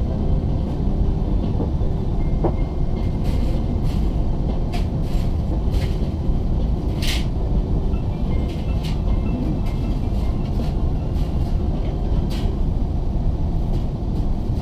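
Airbus A380 cabin noise during ground movement: a steady low rumble, with scattered clicks and rattles of cabin fittings, the brightest about seven seconds in.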